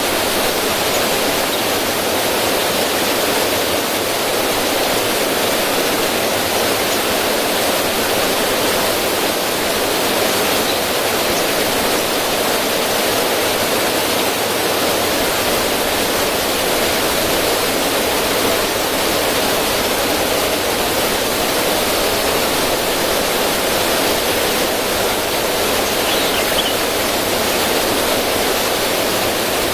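River water running steadily over rocks and splashing down a small cascade, a continuous even rush.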